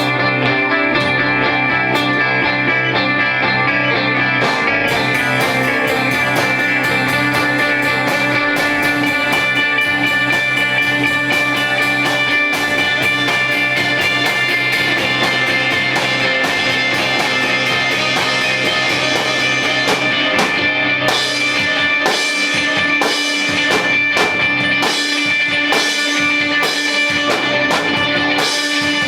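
Rock band playing live without vocals: guitar holds sustained notes over a drum kit, and the drumming grows busier a few seconds in.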